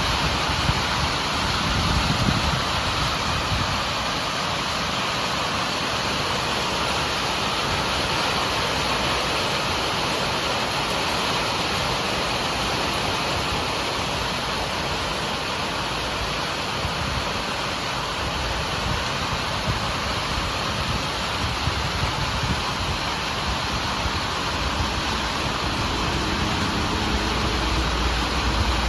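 Steady heavy rain, an even hiss with a low rumble now and then.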